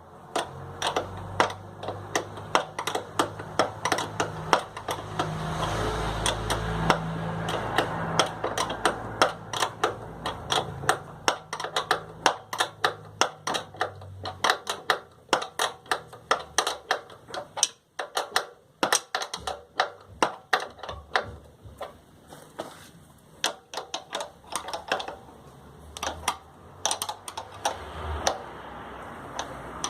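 Sewing machine running, with a fast, even clicking of the needle mechanism over a low motor hum; the hum fades about halfway through while the clicking goes on.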